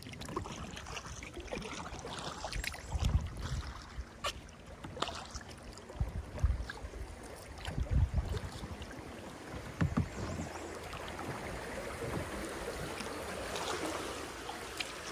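Kayak paddling on a river: water splashing and trickling from the paddle, with irregular dull thumps every few seconds.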